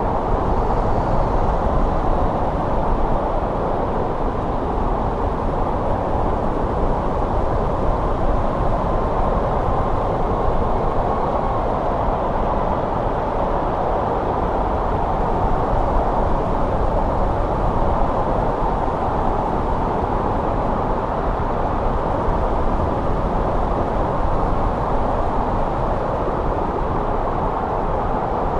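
Steady winter wind: an even rush, mostly low and middle in pitch, with no gusts or breaks.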